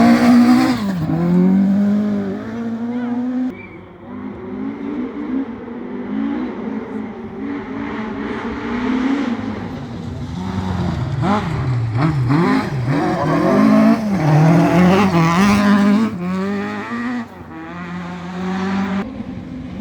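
Rally car engines revving hard at full throttle on a stage, the pitch sweeping up and down with gear changes and lifts. A Mk2 Vauxhall Astra rally car passes loud at the start and fades after a few seconds, then engine revving builds again to its loudest a few seconds before the end.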